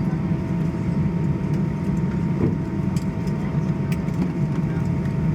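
Steady low cabin drone inside an Airbus A320 taxiing in after landing, with a faint steady whine on top and a few soft clicks.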